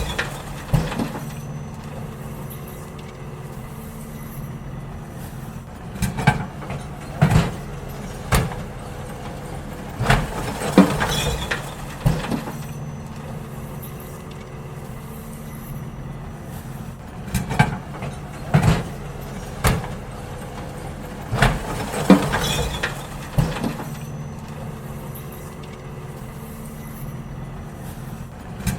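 Garbage truck engine running steadily while bins are emptied, with clusters of loud bangs and clanks every few seconds.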